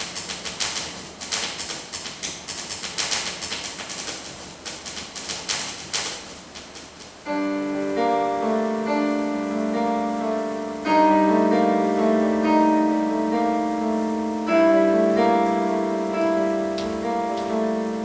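Paper rustling and crumpling in quick irregular crackles. About seven seconds in, instrumental music with held, piano-like chords starts suddenly and carries on, its chords changing twice.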